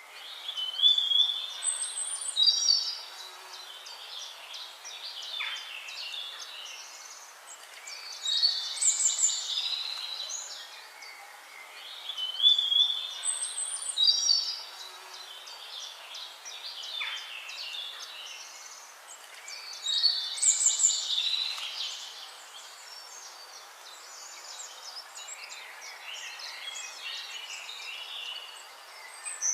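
Birdsong: bursts of chirping and warbling phrases over a faint hiss. The same phrases recur about every twelve seconds, like a looped nature recording.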